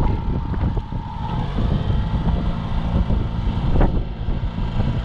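Boat's outboard motor running steadily at trolling speed, with wind buffeting the microphone, and a single sharp click about four seconds in.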